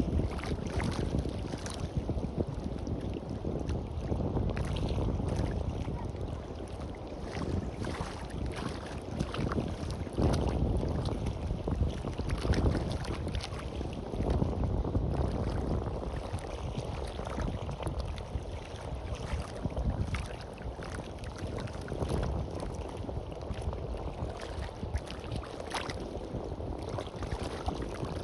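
Wind buffeting the microphone in gusts over the wash of sea waves on a beach.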